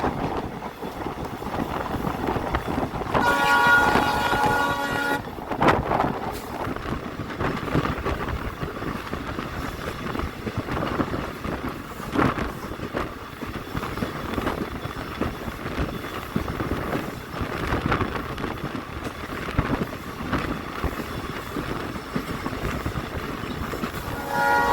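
Diesel locomotive horn sounding a blast of about two seconds a few seconds in, and again near the end, over the steady rumble of the train running on the rails with occasional knocks at rail joints.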